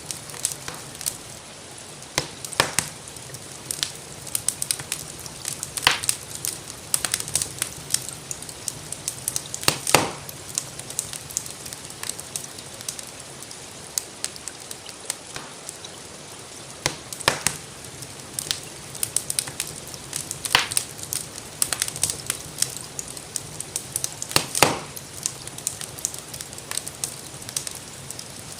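Wood fire crackling in a fireplace: a constant patter of small crackles with a louder sharp pop every few seconds, over a steady hiss of gentle rain.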